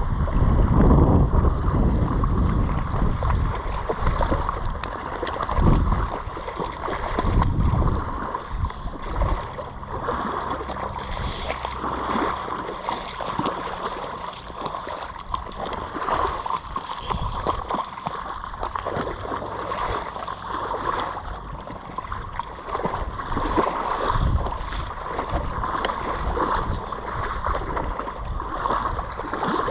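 Floodwater gurgling and sloshing, a steady watery hiss with repeated low rumbles on the microphone, heaviest in the first few seconds.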